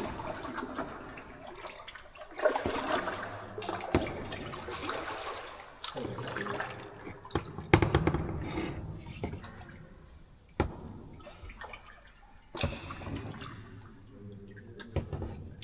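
Water splashing and swishing in irregular surges, as from kayak paddle strokes, with a few sharp knocks now and then.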